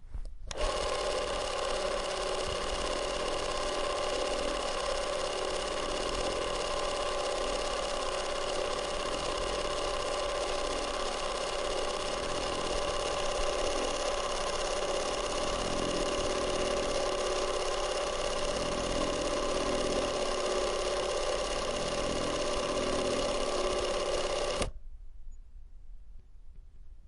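Super 8 film camera running: a steady mechanical whir of the motor and film transport, which starts about half a second in and stops abruptly near the end.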